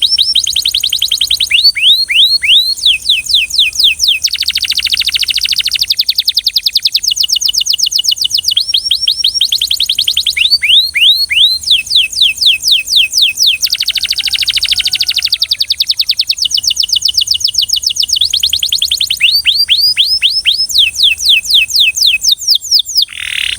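Belgian canary singing continuously in rhythmic tours: each phrase is a fast run of the same short note repeated many times, switching to a new note type every second or two. There is a steady high hiss underneath.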